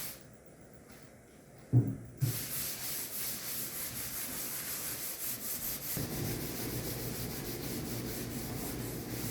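A rag wiping mineral spirits across a wooden buffet top as a slip coat before gel stain: steady rubbing strokes that grow heavier about six seconds in. Two short knocks come about two seconds in, just before the rubbing starts.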